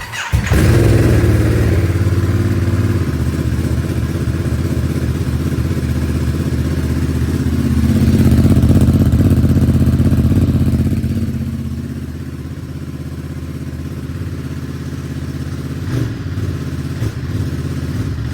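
Ducati Monster Plus 937's Testastretta L-twin engine catching and idling on its first start after an oil change. It swells louder about eight to ten seconds in, then settles to a lower, steady idle.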